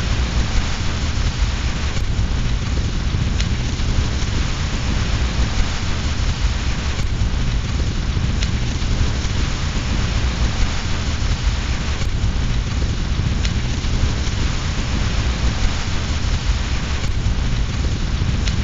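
Steady rain with a deep rumble underneath, mixed with a fireplace fire; faint sharp clicks come about every five seconds.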